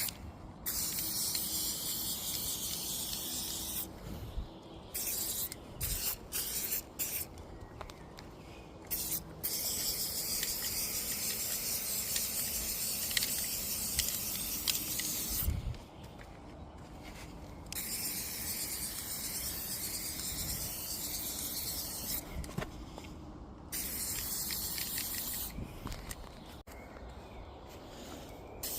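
Aerosol spray paint cans spraying, the hiss starting and stopping: long sprays of several seconds each, with a run of short quick bursts in between.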